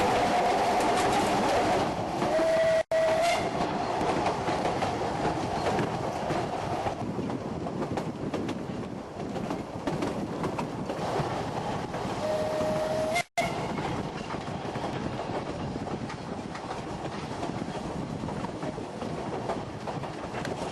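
Ffestiniog Railway narrow-gauge train running, with steady rumble and wheel clatter on the rails. Its whistle sounds for about three seconds at the start, and again briefly about twelve seconds in.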